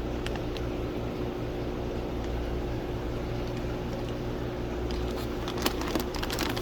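Steady mechanical hum of running equipment, holding several low tones, with a few light clicks near the end.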